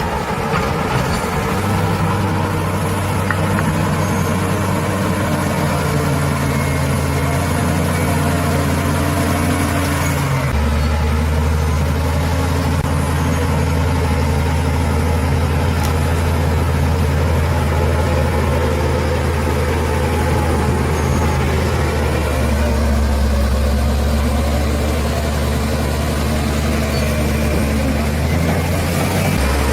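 Bulldozer's diesel engine running steadily. Its note steps down to a lower pitch about ten seconds in and shifts again near the end.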